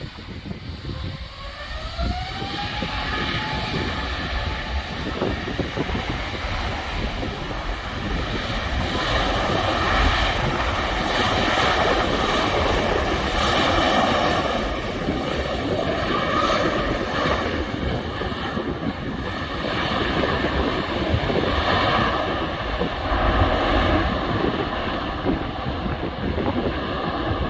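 Airbus A350-1000's Rolls-Royce Trent XWB jet engines spooling up: a whine rises in pitch over the first few seconds and levels off, then loud jet engine noise builds and surges. This is the thrust of a rejected takeoff.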